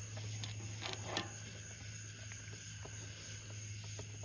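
A few faint clicks and small handling knocks as the choke is worked back into the ATV carburetor, over a steady low hum and a steady high-pitched tone.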